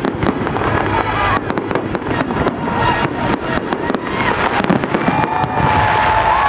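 Fireworks display: aerial shells bursting in a dense, irregular run of sharp bangs and crackling.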